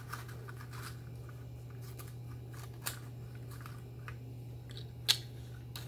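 Steady low hum with a few faint clicks; a sharp click about five seconds in is the loudest, with a smaller one about three seconds in.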